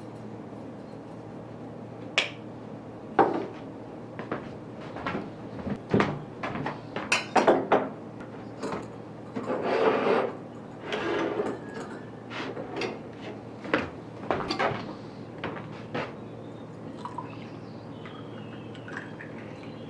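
Household handling sounds: irregular knocks and clinks like dishes and utensils being set down and moved, with a short rushing noise about ten seconds in, over a steady low hum.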